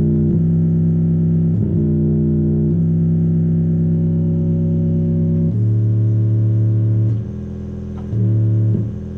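Deep synth bass notes played through Bluetooth speakers, each held for one to three seconds before moving to another pitch. The notes get quieter and shorter about seven seconds in.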